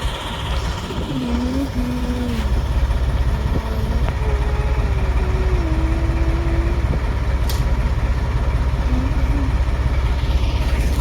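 Heavy diesel locomotive engine running with a steady low rumble.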